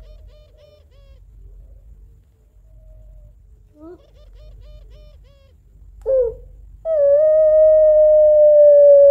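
Female puter pelung (a Barbary dove variety) calling to the male: two runs of short quavering coos, then a brief rising note about six seconds in. About seven seconds in comes a loud, long, steady high-pitched cry that runs past the end, the long drawn 'crying' call of this variety.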